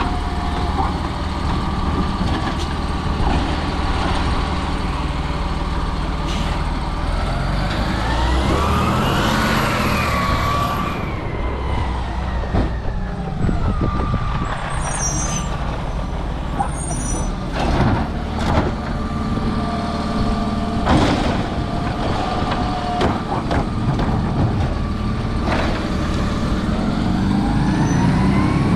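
Autocar recycling truck with a Labrie Automizer side-loader at work. The engine and hydraulics whine up and fall back about a third of the way in, and rise again near the end as the automated arm cycles. Several sharp knocks and bangs come in the middle.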